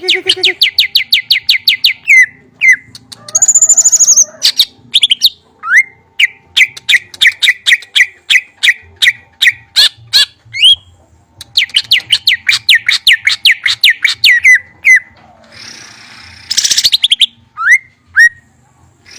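A songbird singing loudly: runs of rapid repeated chirps, about ten notes a second, broken by short pauses, with a brief high whistle about four seconds in.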